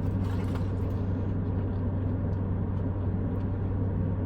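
Steady low hum of a car's interior with the engine running, with a few faint ticks over it.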